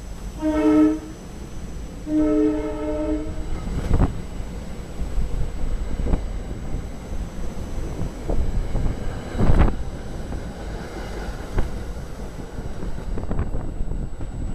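SEPTA commuter train sounding its multi-tone air horn twice, a short blast then a longer one, then rumbling past with sharp thumps of the wheels over rail joints.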